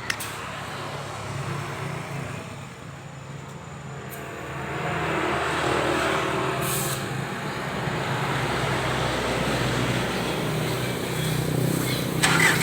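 Truck diesel engine running, growing louder about four and a half seconds in, with a short hiss near the middle.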